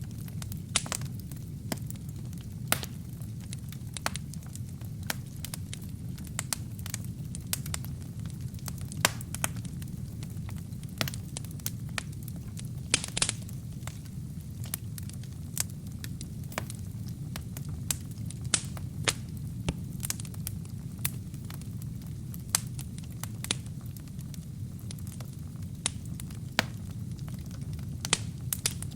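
Wood fire burning in a fireplace: a steady low rumble of flames with sharp, irregular pops and crackles from the burning wood and kindling, one to three a second.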